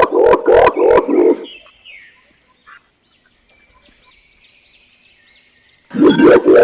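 Green imperial pigeon giving its deep, loud hu-hu-hu call, a quick run of about four to five pulses a second. The call breaks off after about a second and a half and starts again near the end. In the gap a faint, high, repeated chirp of another bird is heard.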